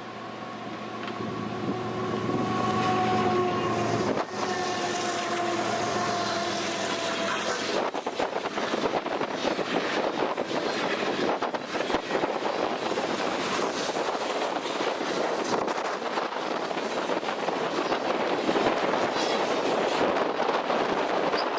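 A Canadian Pacific freight locomotive sounds its chime horn in two long blasts, the second a little lower in pitch as it passes. The horn gives way to the steady clatter of freight cars rolling by on the rails.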